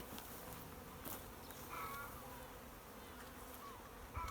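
Swarm of bees buzzing steadily and faintly, many flying at once: the swarm is disturbed as it is being removed.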